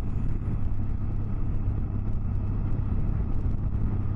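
Motorcycle riding at a steady cruise: a constant low engine drone mixed with wind and road noise.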